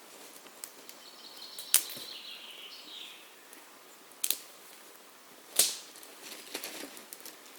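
A few sharp cracks or taps at irregular intervals, three of them loud, with lighter clicks between them and a brief faint hiss that falls in pitch early on.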